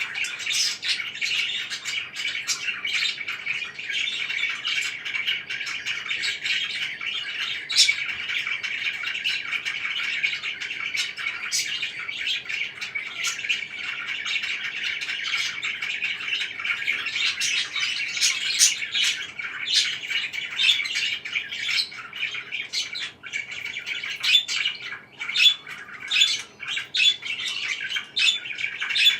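Parakeets chirping continuously, with many short, sharp squawks mixed in and a few louder calls near the end.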